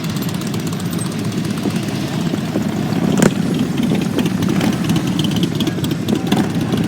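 Motorcycle engines running steadily, with a sharp click about three seconds in.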